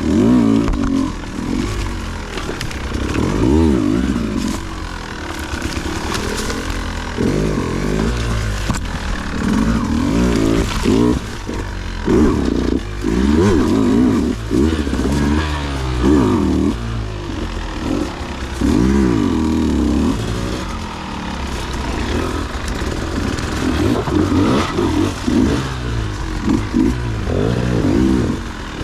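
Dirt bike engine revving up and down again and again in short bursts of throttle as it climbs rough trail, with a few sharp knocks along the way.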